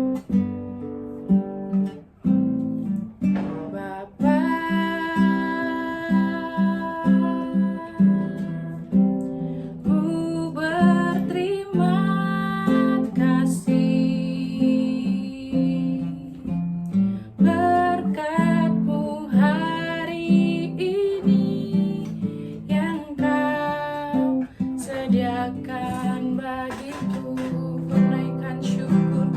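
Acoustic guitar strumming a steady rhythm to accompany a worship song, with a voice singing the melody at times.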